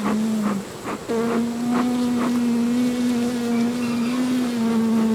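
Honeybees buzzing at an open hive, one close by giving a steady hum that breaks off about half a second in and comes back about a second in. A few sharp clicks sound in the first couple of seconds.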